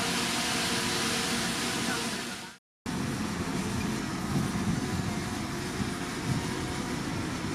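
Diesel engine of heavy earthmoving machinery running steadily. The sound cuts out abruptly for a split second about two and a half seconds in, then the engine resumes with a deeper, lower sound.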